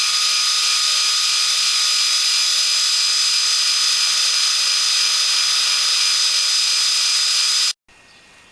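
Belt grinder (linisher) running with a sanding belt as the hatchet head is ground clean of rust and pits: a steady whine and hiss over a low hum. It cuts off abruptly near the end.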